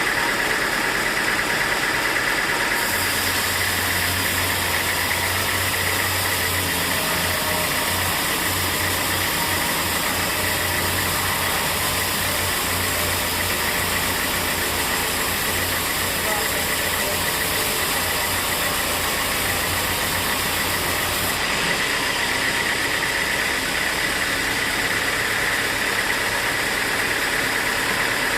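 Sawmill machinery running steadily, with a constant high whine. About three seconds in, a hiss and a low hum join it, and they stop again about three-quarters of the way through.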